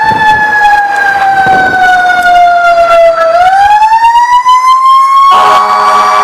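Fire truck's mechanical Q siren slowly winding down in pitch, then spinning back up and rising again. About five seconds in, a steady air horn cuts in over it.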